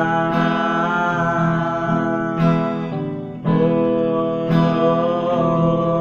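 Acoustic guitar strummed in a slow song between sung lines, its chords changing every second or two.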